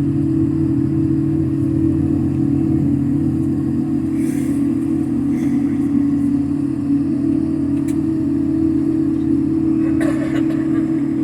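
Steady drone of an airliner's engines and cabin air inside the passenger cabin, an even hum that does not rise or fall.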